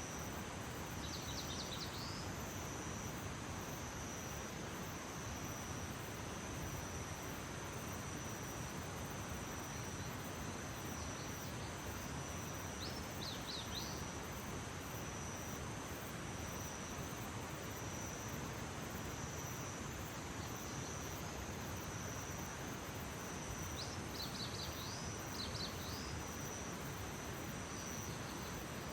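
Early-morning outdoor ambience: insects, likely crickets, trilling in one steady high tone over a constant hiss. Three brief clusters of quick, high chirps come near the start, about halfway through and near the end.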